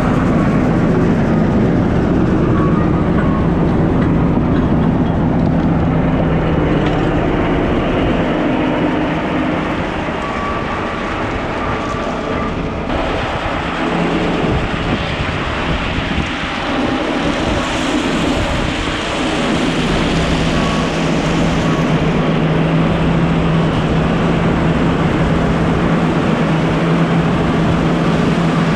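Heavy diesel track-work machinery running steadily, with a constant engine hum under a broad rumble. The sound eases slightly partway through, then a brief hiss rises and fades.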